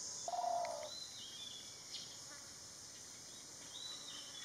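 Birds calling: a short, low call about half a second in, then a few brief high notes after about a second and again near the end.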